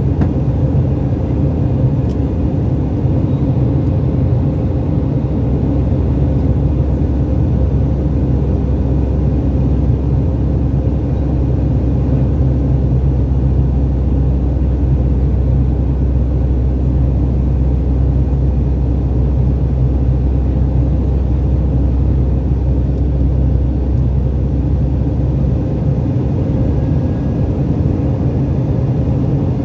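Steady low rumble and drone of a passenger airliner's cabin with the jet engines running, a few low hum tones held through it.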